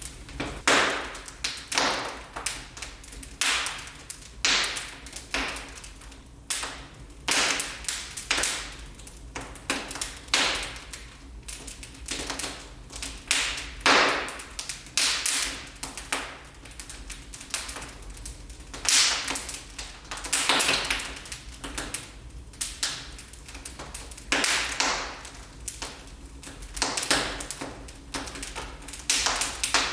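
Wood fire crackling in a fireplace: irregular sharp pops and snaps, one to three a second, over a faint steady background.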